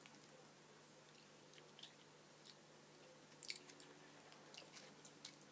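Faint chewing of a soft, chewy fruit sweet: a few small mouth clicks over near silence.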